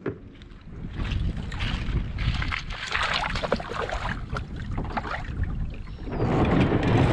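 Kayak on the water, with water sloshing and splashing and wind buffeting the microphone. The wind noise gets louder and steadier about six seconds in.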